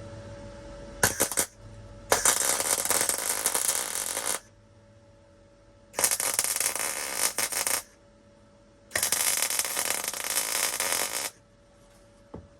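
Wire-feed (MIG) welder running .025 wire, laying short welds on thin sheet-steel patch panels: a brief crackle about a second in, then three sputtering bursts of about two seconds each with pauses between.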